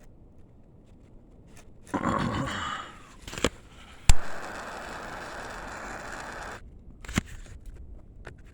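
A loud rush lasting about a second, then a sharp click and a steady hiss that stops suddenly after about two and a half seconds: a handheld torch being lit and burning to heat a plastic weld over a crack in the boat's hull.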